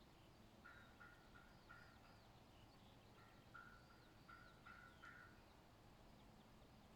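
Faint birdsong: short repeated notes in several groups through the middle, with thin, high, curving chirps from other birds behind them.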